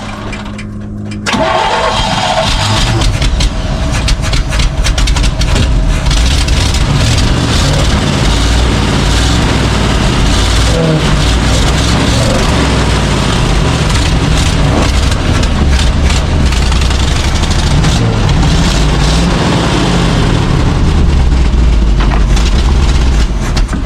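Chevrolet C60 wrecker truck's engine running loudly and steadily, jumping up in level about a second in, soon after being brought back to life on gas poured into the carburetor.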